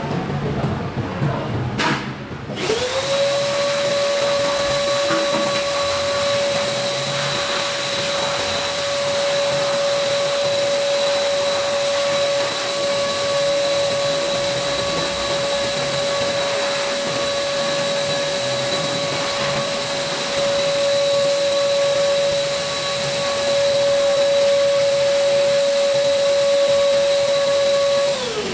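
A small high-speed electric blower motor switched on with a click, winding up within half a second to a steady high whine with rushing air. It runs for about 25 seconds and winds down near the end.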